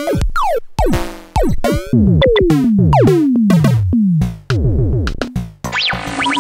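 VXXY DCM8 digital chiptune drum machine playing a lo-fi 8-bit beat: repeated hits that drop steeply in pitch, like zapped toms and kicks, mixed with short bursts of noise.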